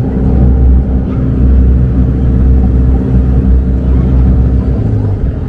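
Engine of a motorized river raft running steadily under way, a loud, even low hum with a constant pitch.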